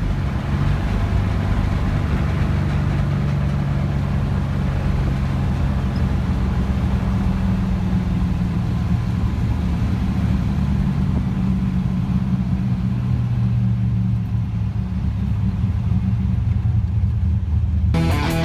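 1951 Chevrolet truck's straight-six engine running steadily at an even speed.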